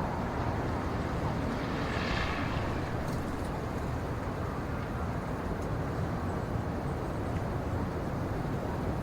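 Steady low rumbling outdoor ambience with no clear single source. A brief brighter sound rises out of it about two seconds in.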